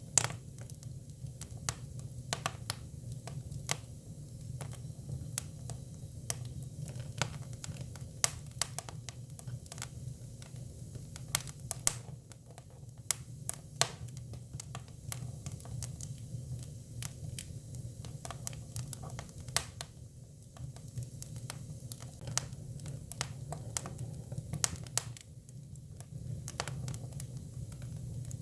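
Hinoki cypress firewood burning: irregular sharp crackles and pops, some louder than others, over a steady low rumble of the fire.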